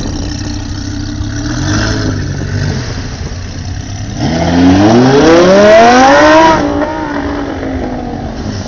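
A car engine accelerating hard: after a short blip, its note climbs steeply for about two seconds, the loudest part, then breaks off and falls away, over a steady idling engine.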